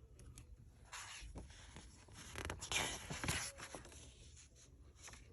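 Glossy magazine pages and covers rustling and swishing as they are handled, with a few soft bursts about a second in and again a little past the middle.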